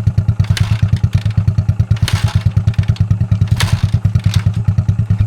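Motorcycle engine running steadily with an even, fast pulsing beat, with a few sharp clattering knocks about half a second, two and three and a half seconds in.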